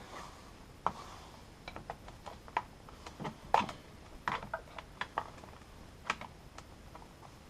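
Irregular clicks and small knocks of hard plastic as the clips and panels of a car's under-bonnet fuse box are worked loose by hand, the loudest about halfway through.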